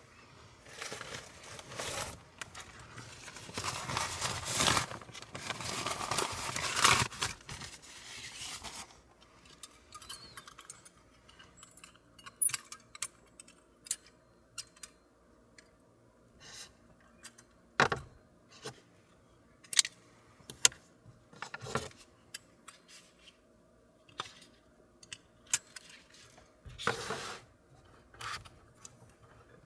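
Small objects being handled: several seconds of rustling, then scattered clicks, clinks and light knocks at irregular intervals.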